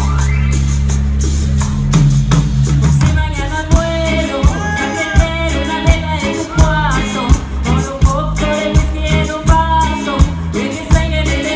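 Live band music. A low chord is held for about three seconds, then the drums come in with a steady beat under a wavering melody line.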